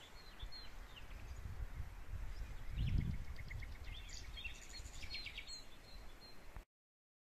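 Small birds chirping and trilling, with quick falling calls and a fast run of repeated notes, over a low rumble that swells about three seconds in. The sound cuts off abruptly near the end.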